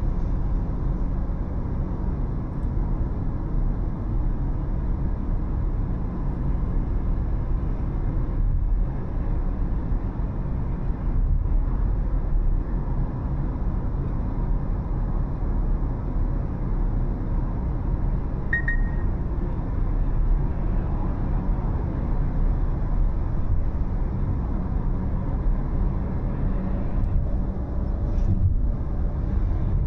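A car driving along city roads: steady low road and engine rumble, with a brief faint high-pitched tone a little past the middle.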